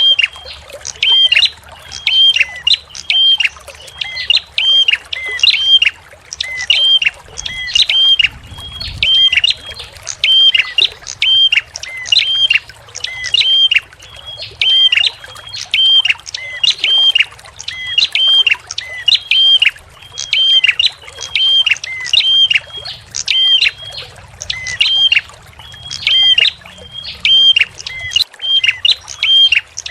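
A small songbird repeats one short, sharp, high call in a steady rhythm, about one and a half calls a second, over a background of trickling water.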